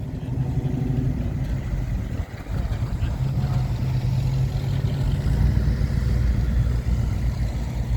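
A car engine running steadily, with a brief dip in level about two seconds in.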